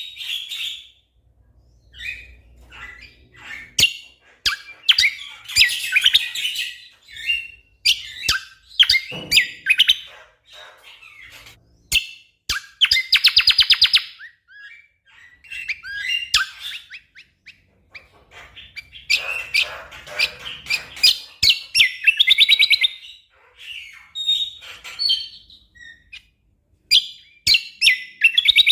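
Cucak kombo (kecial kombok) songbird singing in fast, loud bursts of rapid trills and sharp repeated chips, phrase after phrase with short pauses between them.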